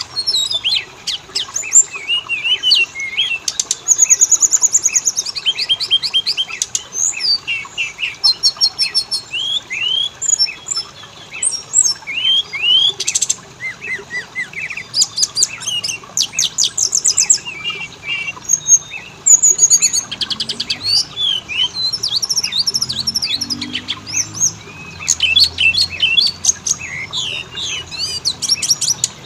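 Oriental magpie-robin (kacer) singing a rapid, varied song of whistles, chirps and fast trills, almost without pause.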